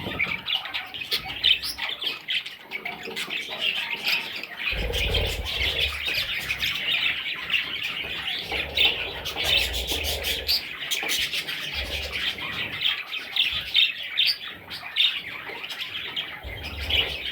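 Parrot chicks squawking and chirping continuously, many short overlapping calls, with a few low rumbling bumps underneath.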